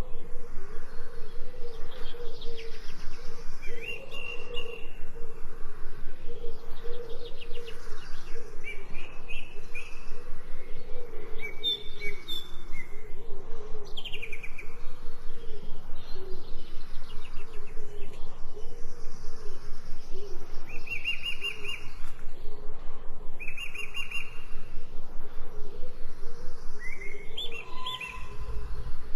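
Songbirds singing short chirping phrases every few seconds over a steady background that pulses fast and evenly.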